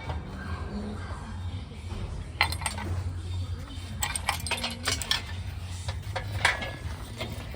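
Scattered sharp metallic clinks and clanks, like metal parts and tools being handled, over a steady low hum.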